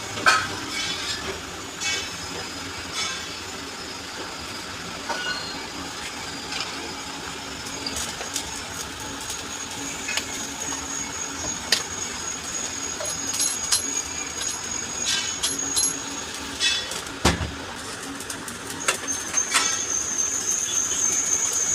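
Metal tools clicking and tapping while a rotary diesel injection pump is worked on, over a steady low hum. A thin high whine comes in around the middle and again near the end, and there is one louder knock about three-quarters of the way through.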